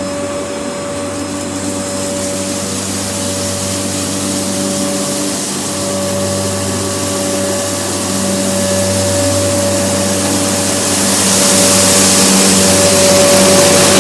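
Kenmore upright vacuum cleaner running steadily at full speed as it is pushed over a floor scattered with rice, a steady motor whine over a rushing hiss. The hiss and overall level grow louder from about eleven seconds in.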